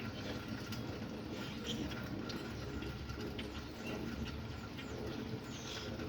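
Rain falling steadily with birds chirping in short, scattered calls, a few of them quick falling notes near the end.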